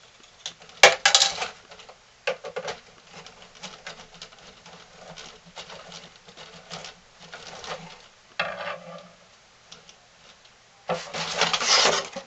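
Handling noise from unboxing a toy RC buggy: plastic and cardboard packaging being rustled, clicked and knocked, with a sharp knock about a second in and louder, busier rustling near the end.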